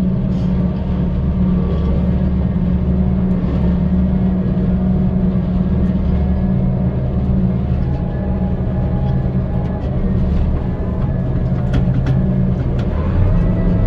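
Gleaner M2 combine running while harvesting corn: a steady engine and threshing-machinery drone that shifts in pitch near the end.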